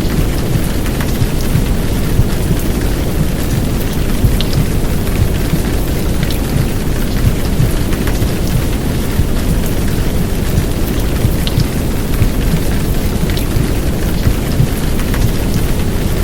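Heavy downpour rain, a steady dense hiss with scattered drop ticks, over a deep low rumble of womb-sound white noise.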